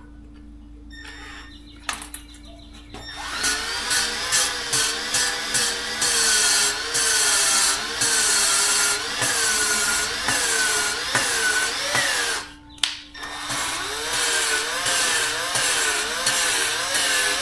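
A drill spinning an LS exhaust valve by its stem to lap it into its seat with fine lapping compound, the valve grinding against the seat. A few seconds in, the drill is pulsed in short bursts. Then it runs steadily, its speed wavering up and down, stops briefly about two-thirds of the way through, and starts again.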